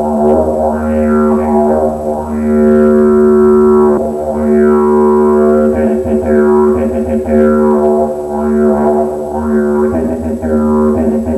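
Didgeridoo (yidaki) playing a steady, loud drone, the player shaping it with mouth and voice into repeated sweeping 'didgeridoo' word sounds about once a second.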